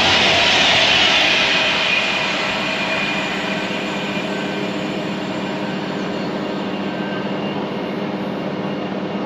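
A train passing through the station: a loud rush that dies away over the first couple of seconds, leaving a steady hum as it runs on.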